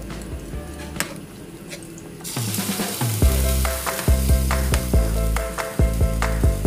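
A metal spoon stirring chicken afritada in a pan, clicking against the metal a few times; about two seconds in, a loud sizzle of the simmering tomato sauce comes in and continues.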